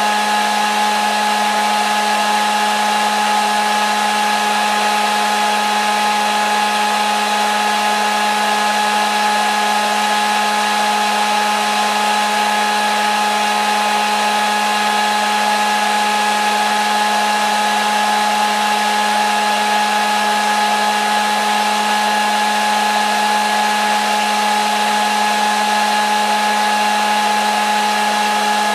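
Hair dryer running steadily: an even rush of blown air with a constant motor whine, no change in speed.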